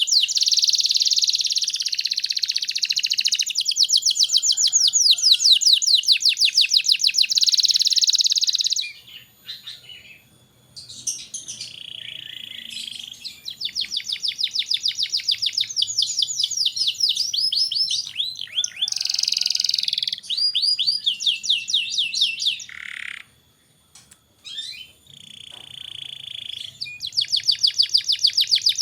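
Domestic canary singing a long, fast song of rapid trills and rolls, made of quickly repeated high notes, breaking off briefly twice.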